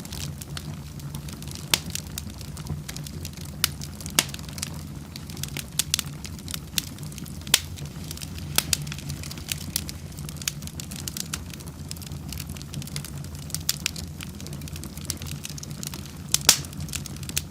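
Wood fire burning in a fireplace: a steady low rumble of flames under irregular sharp crackles and pops, with the loudest pop near the end.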